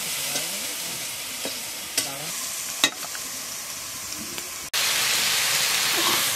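Hand scraping and rubbing paste across a stone grinding slab, with two sharp clicks. About four and a half seconds in, it gives way abruptly to a louder steady sizzle of mushrooms frying in oil in a metal wok.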